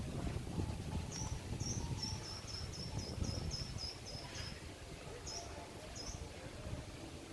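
A small bird singing a quick series of high, repeated notes, about three or four a second, then two more single notes spaced apart. A low wind rumble on the microphone runs underneath.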